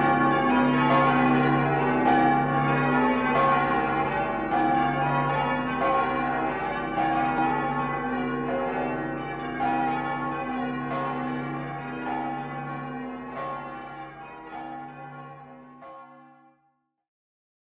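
Church bells ringing, a slow series of strikes about once a second, each left to ring on, growing fainter until they stop about sixteen seconds in.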